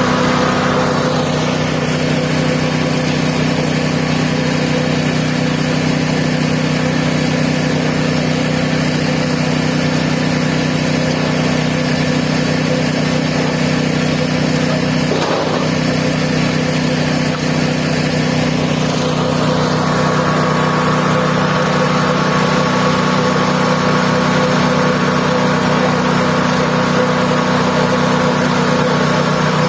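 Mobile band sawmill running, its engine at a steady pitch. A higher tone above the engine fades about a second in and comes back about two-thirds of the way through.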